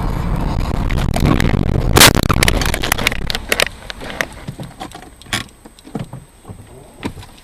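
Car collision: vehicle noise swells to one loud crash about two seconds in, followed by a scatter of smaller clicks and rattles that thin out over the next few seconds.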